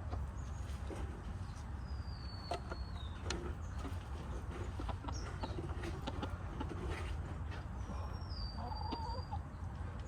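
Backyard hens clucking softly now and then, with scattered clicks and rustles, over a steady low rumble. Two thin, high whistled notes, each sliding down and then held, sound about two and a half seconds in and again near the end.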